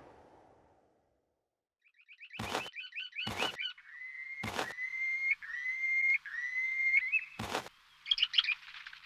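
Bird chirping: a quick warbling trill, then four whistled notes that each swoop upward, with sharp clicks between them and a burst of chirps near the end. A hissing noise fades out at the start, leaving about a second of silence before the bird begins.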